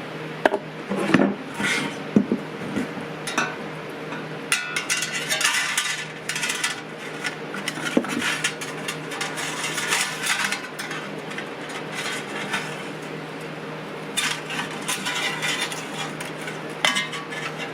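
Metal clinking, rattling and scraping as a coiled recoil-starter spring from a Briggs & Stratton flathead engine is worked by hand into its starter housing, in irregular bursts of small impacts.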